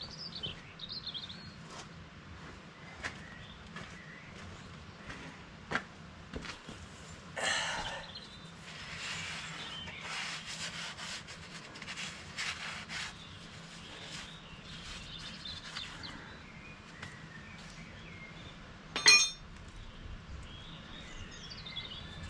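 Hands working a hydraulic hose and its metal fittings into place: scattered small clicks and rustling, with one sharp metallic clink that rings briefly near the end. A faint steady low hum runs underneath.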